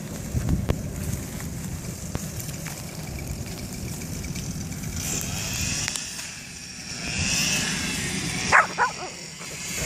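A dog gives two short, sharp barks near the end, over a low rumbling noise.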